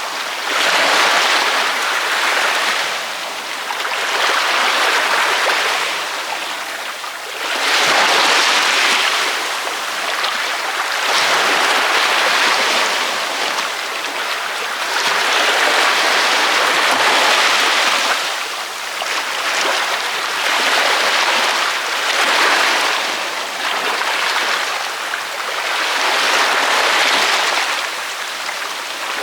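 Ocean waves breaking on a beach: a continuous hiss of surf that swells and eases as each wave comes in, every few seconds.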